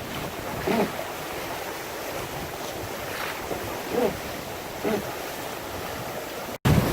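Water rushing past a sailboat's hull under sail, with wind buffeting the microphone and a few brief louder swishes of water.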